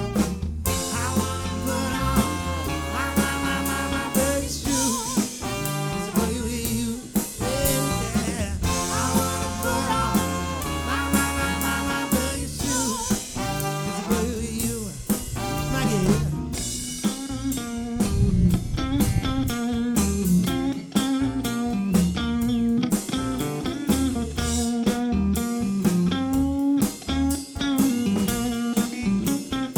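Live band playing a song, with drum kit, bass and electric guitar.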